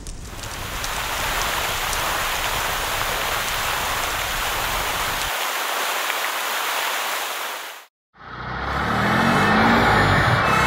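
Sound effect of a fire hose spraying water: a steady, even hiss that cuts off suddenly about eight seconds in. After a brief silence, a truck engine starts up, running louder, with its pitch rising.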